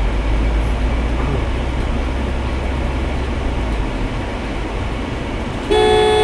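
Steady road and engine noise of a moving car, with a deep rumble that eases about four seconds in. Near the end a car horn starts blaring, one held note.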